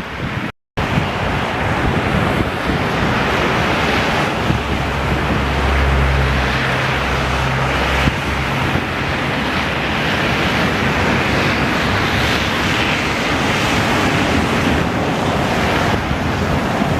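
Storm wind blowing hard across the microphone, a loud steady rush of noise during a snowstorm. A low rumble swells from about four to eight seconds in, and the sound cuts out for a moment just after the start.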